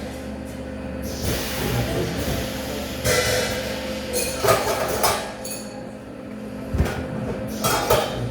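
Metalworking shop noise: a steady machine hum with repeated bursts of hissing and a few sharp metal knocks.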